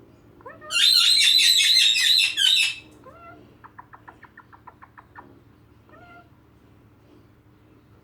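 A parrot gives a loud, harsh, rapidly pulsing screech for about two seconds, followed by a quick run of soft clicks and a brief faint call.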